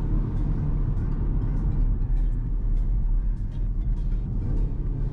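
BMW 128ti's turbocharged four-cylinder engine running under way, a steady low drone over road noise, with the artificial engine sound that comfort and sport modes pipe into the cabin. Background music plays along with it.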